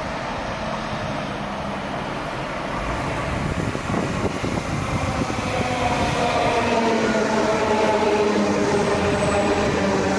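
SL X60 electric commuter train running through the station, its rushing noise growing steadily louder, with several steady tones joining in from about halfway through.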